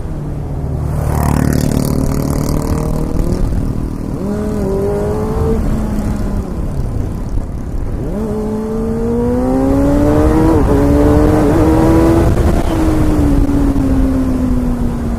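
Motorcycle engine running under way, its pitch dipping and rising with the throttle. It climbs steadily as the bike accelerates in the second half, then eases back down near the end. A brief rush of noise comes about a second in.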